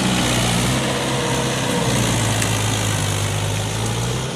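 Mahindra tractor's diesel engine running steadily, its low engine note holding nearly even.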